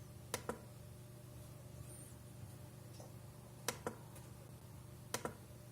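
Netbook touchpad buttons clicked three times, each a quick pair of clicks, against a faint steady hum.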